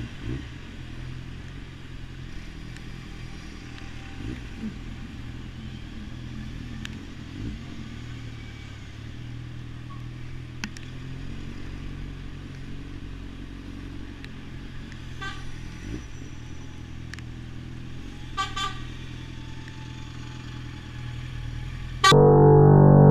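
Motorcycle engine running steadily while riding, with two short beeps near the middle. Loud music cuts in suddenly near the end.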